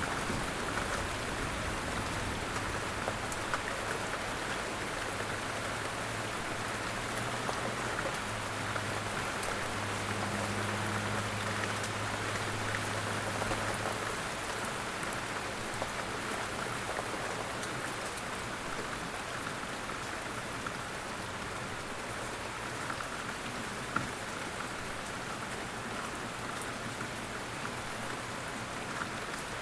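Steady rain falling and pattering on a surface, a dense even hiss with scattered drop ticks. A low rumble runs underneath and fades out about halfway through.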